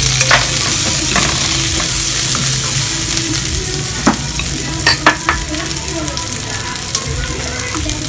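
Sliced onions and chopped garlic sizzling in hot oil in a nonstick wok: a loud, steady frying hiss, broken by a few short sharp clicks.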